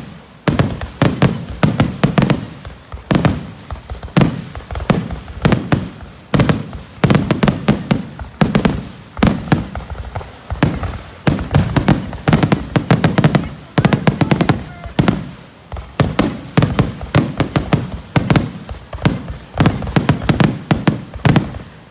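Aerial fireworks bursting in a rapid, unbroken barrage: many sharp bangs and crackles each second, coming in overlapping waves.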